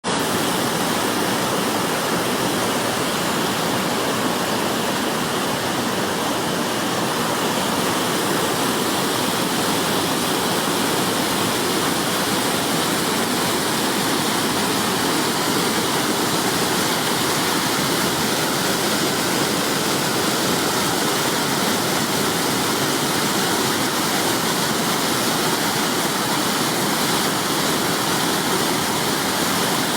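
Waterfall: a steady rush of falling water, unchanging in level.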